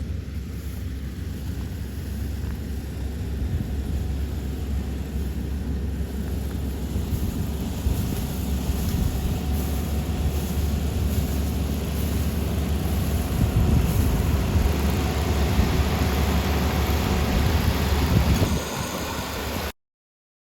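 Kubota rice combine harvester running: a steady, heavy engine and machinery rumble that grows louder in the second half, drops at about 18.5 seconds, then cuts off suddenly about a second later.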